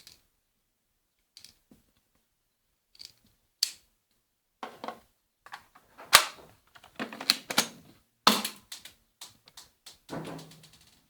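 Airsoft Beretta M9 pistol clicking and clacking: a few sparse sharp clicks at first, then a dense, irregular run of mechanical clacks from about halfway in, the loudest about six and eight seconds in.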